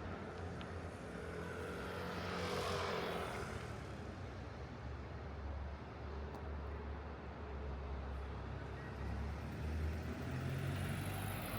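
Road traffic: a steady low engine rumble, with one vehicle passing close about two to three seconds in, its sound swelling and then fading.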